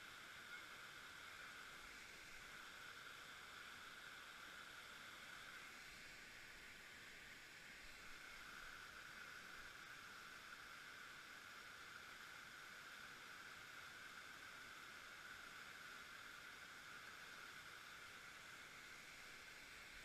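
Faint, steady hiss of rushing river water.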